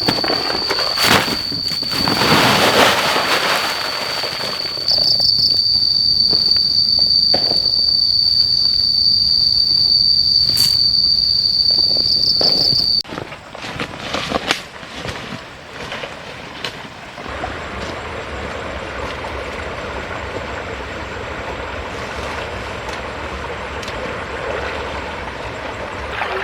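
An insect's steady high-pitched trill, with scattered knocks and handling sounds over it. About halfway through it cuts off abruptly, leaving scattered light taps and then a steady soft rushing hiss.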